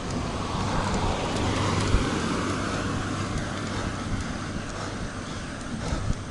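Wind and road noise on an action camera's microphone while riding a road bike, swelling a little about two seconds in.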